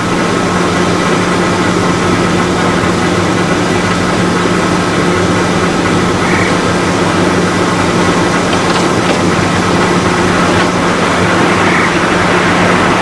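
Boeing 737-800 jet airliner's CFM56 engines running, a steady loud rush with a low hum, slowly growing louder as the aircraft comes closer.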